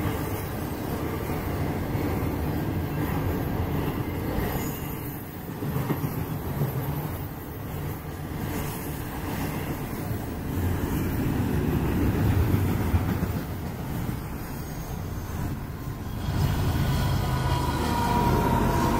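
Freight train passing at trackside: a steady rumble and clatter of steel wheels on rail from loaded intermodal flatcars and double-stack container cars. Near the end, mid-train diesel locomotives come by, adding a louder engine hum and a steady whine.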